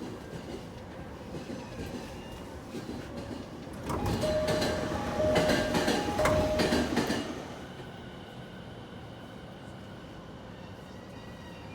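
E217-series train door operating. About four seconds in, some three seconds of louder door-engine noise with knocks and a tone sounding three times; steady train hum before and after. The groaning is the abnormal noise the uploader puts down to an aging, deteriorated door engine.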